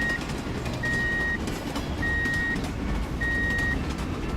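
Electronic warning beeper sounding a steady high tone in half-second beeps, about four times, each a little over a second apart, over a low vehicle rumble.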